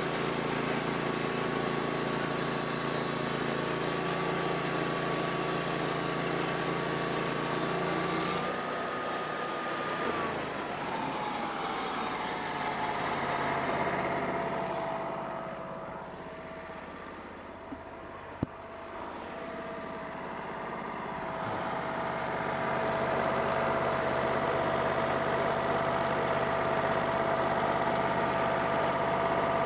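Wood-Mizer band sawmill running: a steady engine whine drops in pitch about ten seconds in. The sound turns quieter and duller for several seconds mid-way, with a single sharp click, then builds back up.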